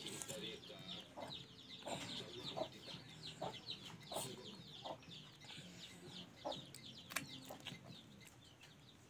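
Birds calling: a steady run of many quick, high chirps, with short lower calls about every second.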